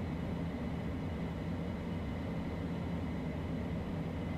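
Steady in-flight cockpit noise of a Beechcraft Premier I business jet: an even rumble of engines and airflow, with a few faint steady high tones over it.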